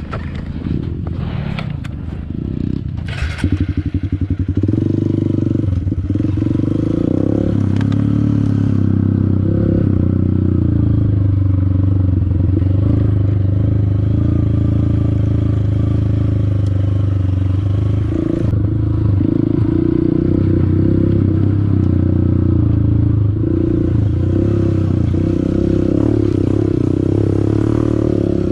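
Honda CRF150L's single-cylinder four-stroke engine running at a steady pitch, after a few seconds of clattering and knocks at the start.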